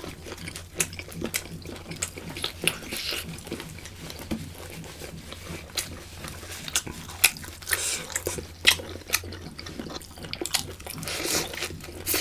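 Close-miked eating sounds: wet chewing and lip-smacking of octopus and lettuce wraps, with sharp mouth clicks at irregular intervals and a few longer wet smacking bursts.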